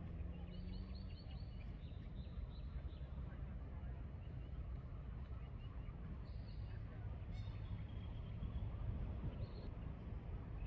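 Steady low background rumble with faint, high bird calls over it: a quick run of chirps about half a second in, then a few short calls scattered later.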